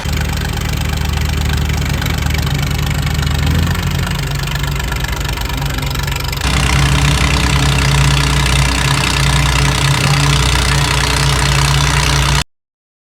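Tractor diesel engine running at a steady speed, its low note shifting abruptly twice, then cutting off about a second before the end.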